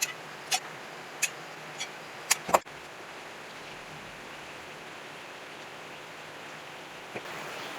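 About six short, sharp clicks in the first three seconds, over a steady background hiss that carries on alone after them.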